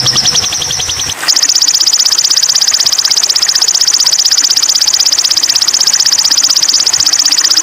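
Sogon (sunbird) song played as a bird-song tutor track: a long, very fast rattling trill. About a second in it switches abruptly to a louder, slightly higher trill that runs on without a break.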